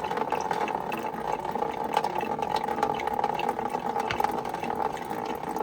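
Coolant pouring steadily out of a BMW E36's opened radiator drain into a catch container, a continuous splashing stream with small ticks and drips.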